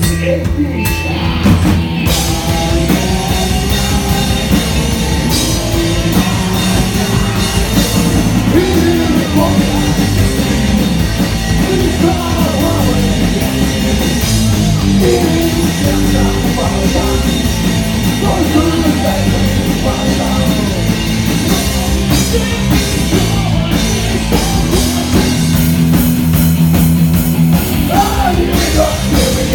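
Punk rock song with singing over a driving drum kit and band, loud and steady throughout.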